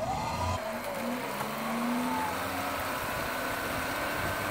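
Suzuki SJ-series 4x4's engine revving as it drives through a shallow creek. The pitch dips, climbs and falls again over the first two seconds, then settles into a steadier run.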